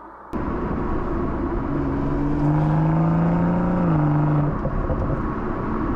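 BMW M240i's B58 turbocharged straight-six accelerating hard. Its note rises steadily, then drops as it shifts up a gear about four seconds in. The sound cuts in abruptly just after the start.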